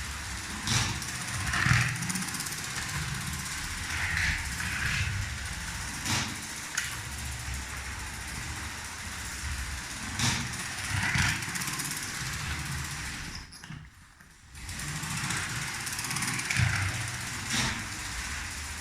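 Lego 7750 12-volt train locomotive running on plastic track: a steady motor hum and wheel rattle, with sharp clicks and swells that come louder every few seconds. A little over thirteen seconds in, the sound drops away for about a second.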